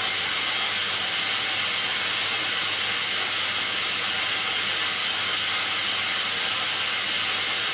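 Hoover washing machine filling for its final rinse: water running in through the dispenser drawer with a steady hiss, flushing the fabric softener into the drum.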